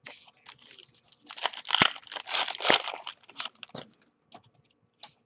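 Trading card pack wrapper being torn open and crumpled by hand: a dense crinkling crackle, loudest for about two seconds in the middle, with a few scattered rustles and clicks around it.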